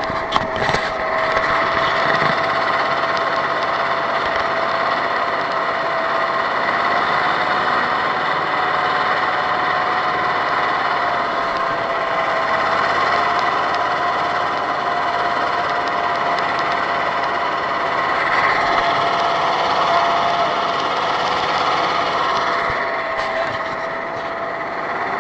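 A vehicle engine running steadily under way, with a thin whine that drifts slightly in pitch.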